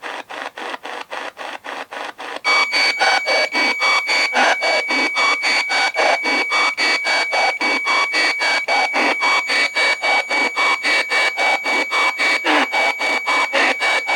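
Spirit box sweeping the AM radio band, chopping static into rapid bursts about five a second. About two and a half seconds in it grows louder and a steady high-pitched whine joins the sweep, a weird noise the device has not made before.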